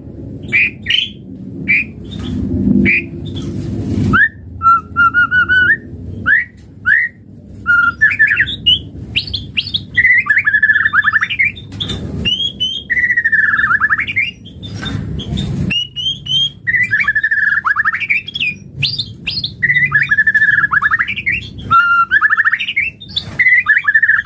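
White-rumped shama (murai batu) singing loud, varied phrases of whistles and harsh notes, repeated with short pauses between them.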